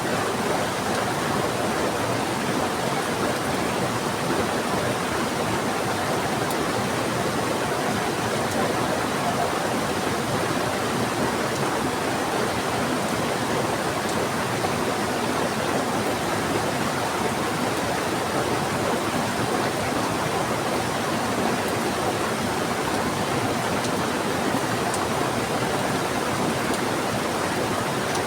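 Steady rushing of a fast-flowing river mixed with heavy rain falling, an even wash of water noise.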